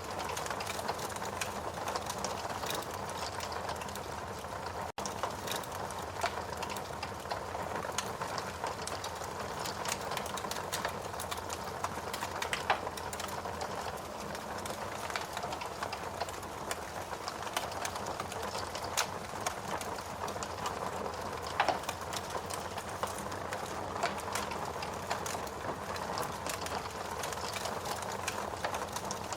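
Logs burning in a fireplace, crackling steadily with many small snaps and a few louder pops.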